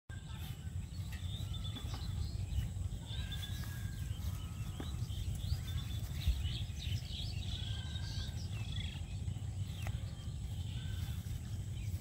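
Several small birds chirping and whistling in short, repeated calls, over a steady low rumble.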